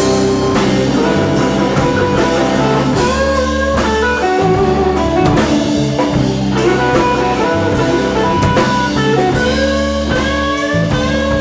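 Live blues band playing an instrumental break between sung verses: guitar and drum kit under a lead melody that bends in pitch.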